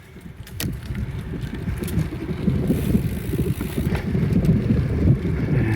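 Riding a bicycle: wind rumbling on the phone's microphone along with tyre noise, rising over the first second and then holding steady, with a few light clicks.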